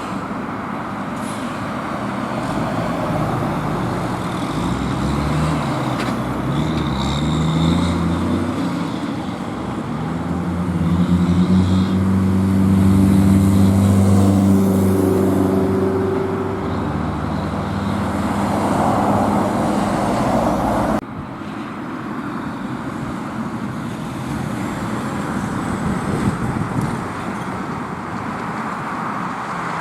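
Road traffic with a heavy truck's engine passing close, its pitch stepping upward and then holding loud for several seconds. About two thirds of the way through the sound cuts suddenly to quieter traffic noise.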